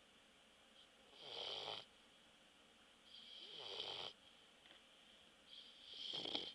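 Bulldog snoring in its sleep: three snores about two seconds apart, each lasting about a second.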